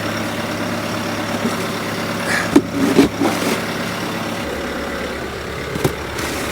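Bobcat T66 track loader's 75-horsepower diesel engine running steadily while it drives a snowblower attachment, with a few short clunks midway. The engine's low note shifts about four and a half seconds in.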